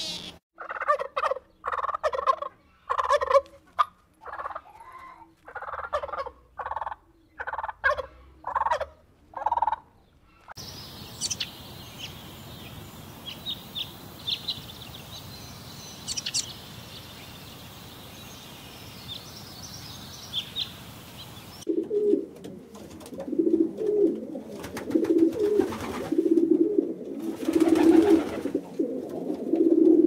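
A domestic turkey gobbling in short repeated calls, about two a second. About a third of the way in this gives way to a hummingbird's thin, high chirps over a steady hiss. About two-thirds of the way through, rock pigeons start cooing.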